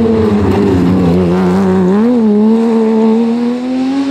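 Porsche 911 GT3 rally car's flat-six engine dropping in revs, with a short blip of the throttle about two seconds in, then revs climbing steadily.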